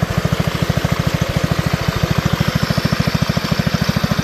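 Allis-Chalmers B-110 garden tractor's single-cylinder engine idling steadily, an even chug of about a dozen beats a second.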